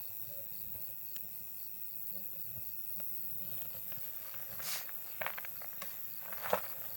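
Campfire crackling, with a few sharp pops in the second half, the loudest near the end. Under it, insects chirring steadily, with one insect chirping in rapid regular pulses, about five a second.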